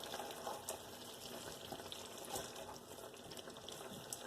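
Faint sizzling and bubbling of an aloo gobi curry of cauliflower and potatoes simmering in oil on low heat, with scattered small crackles.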